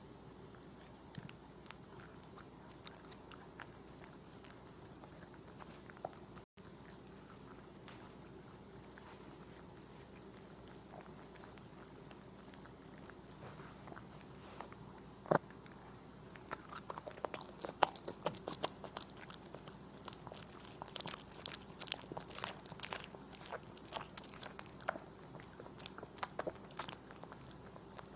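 A puppy biting and chewing strawberries: small wet crunches and mouth clicks, sparse at first and coming thick and fast in the second half, with one sharper snap about halfway through.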